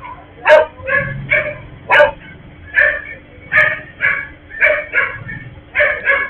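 A dog barking repeatedly, short sharp barks about two a second, with some higher yips among them.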